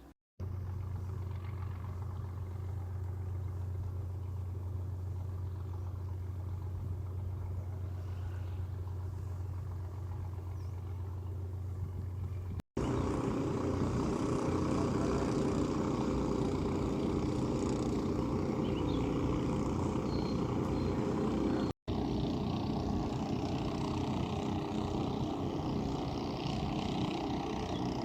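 Steady vehicle running noise across three edited shots. A low steady hum comes first; after a sudden cut about twelve seconds in it becomes a louder, rougher rumble, and it changes again after another cut near the three-quarter mark.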